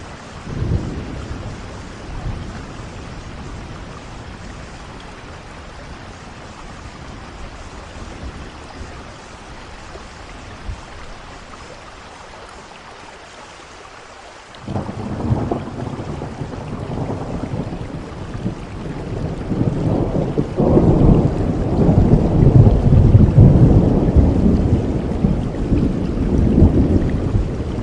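Steady rain falling, with a short low rumble of thunder about a second in. About halfway through, a long roll of thunder breaks in suddenly, swells for several seconds until it is the loudest sound, then slowly fades.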